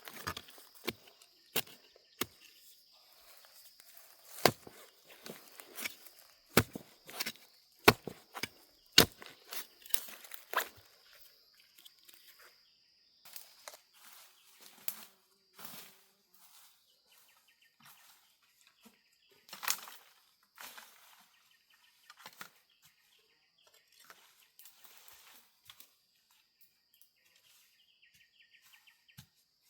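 Irregular sharp knocks and cracks, most of them in the first half, over a steady high insect drone.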